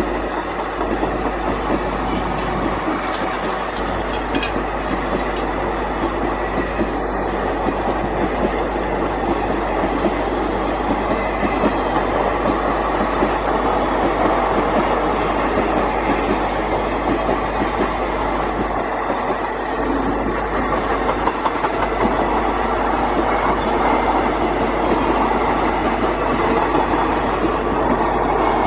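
Train running on the rails, a steady rumble with fast irregular wheel clacks, growing slightly louder toward the end.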